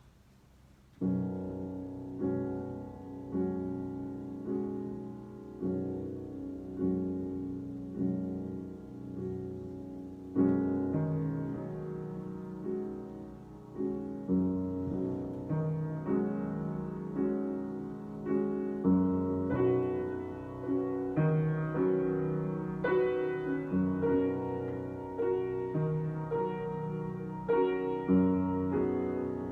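Solo piano improvisation, starting about a second in: slow chords struck roughly once a second, each left to ring and fade before the next.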